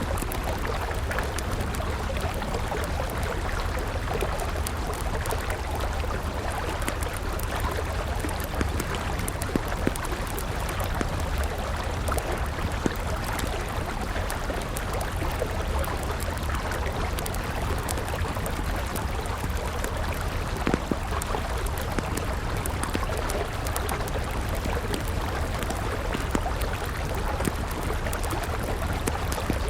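River water running steadily, with a wood fire crackling in scattered sharp pops over it.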